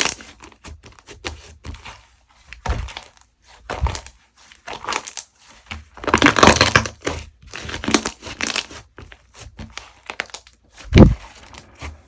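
Slime being squished, pressed and stretched by hand, making irregular crackling, popping squelches. There is one louder, deep pop near the end.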